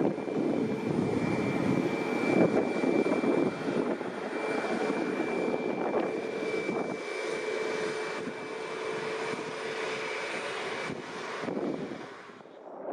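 Boeing 737 MAX 8's CFM LEAP-1B turbofans running at taxi power: a steady jet rush with a high, steady whine over it, easing off near the end.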